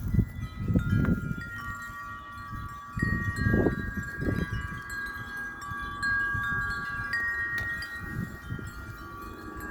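Wind chimes ringing in gusty wind: several long, steady notes struck one after another and overlapping. Low rumbles of wind surge underneath, strongest about a second in and again around three to four seconds.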